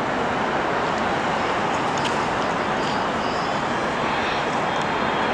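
Jet airliner's engines heard as a steady rushing noise, with a faint high whine joining in about halfway through.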